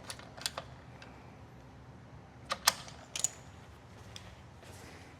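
Ratcheting torque wrench clicking as the upper radiator fasteners are torqued down. There are a few clicks near the start, then a sharp pair about two and a half seconds in and another a moment later.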